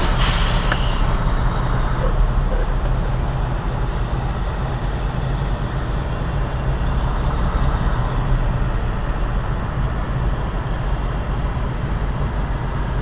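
Semi-truck diesel engine running steadily, heard from inside the cab, with a short burst of hiss right at the start.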